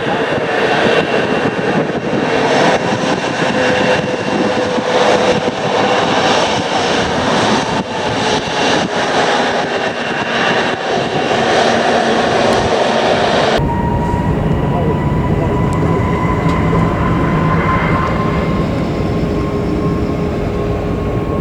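Jet aircraft engines running loud and steady. About two-thirds of the way through, the sound cuts off abruptly and is replaced by a different jet sound: a low rumble under steady whining tones.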